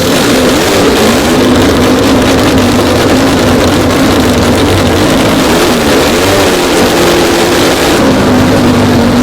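A twelve-rotor Wankel rotary engine running, its pitch wavering up and down with small throttle changes. The sound changes slightly about eight seconds in.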